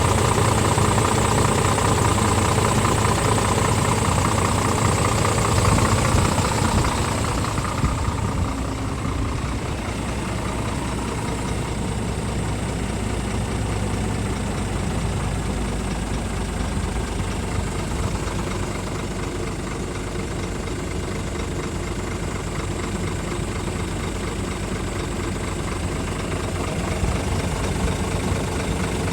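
Scania R450 truck's six-cylinder diesel engine idling steadily. About eight seconds in, a higher whine and hiss drop away and the running grows a little quieter.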